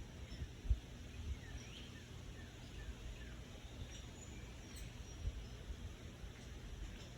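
Faint, scattered bird chirps, short downward-sliding calls, over a steady low rumble with a few soft thumps.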